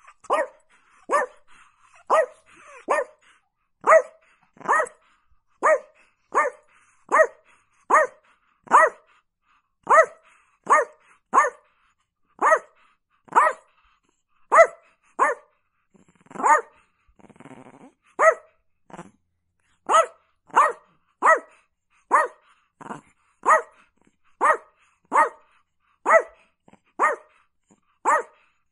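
A Chihuahua barking in play: a long, steady run of short, sharp single barks, about one every three-quarters of a second, with a brief low growl about halfway through.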